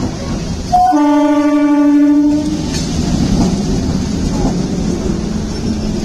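Suburban electric multiple-unit train sounding one horn blast about a second in, lasting about a second and a half, then its carriages rumbling past at close range.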